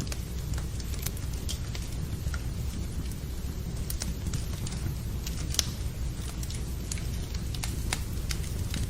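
Wood fire crackling in a fireplace, with irregular sharp pops over a steady low rumble, mixed with rain.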